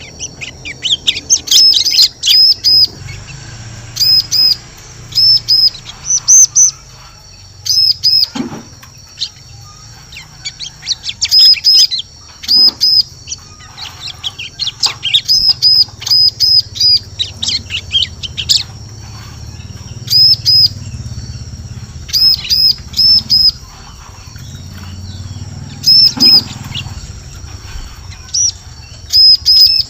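Bar-winged prinia (ciblek) calls used as a lure: short, sharp, high-pitched chirps repeated in quick clusters of two to five notes, every second or two.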